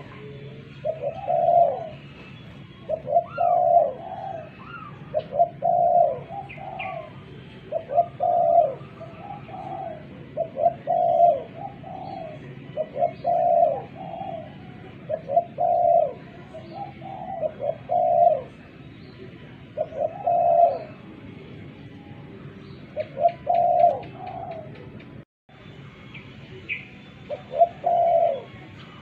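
Spotted dove (tekukur) cooing over and over, each phrase a short run of rising and falling coo notes, about one phrase every two to three seconds. Faint high chirps of smaller birds sound in the background, and the sound cuts out for a moment near the end.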